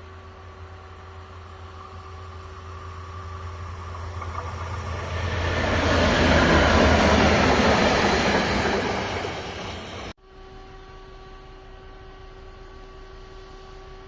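A train passing on the railway line, its rolling noise swelling over several seconds to a loud peak, then cut off abruptly about ten seconds in. A steady low hum remains afterwards.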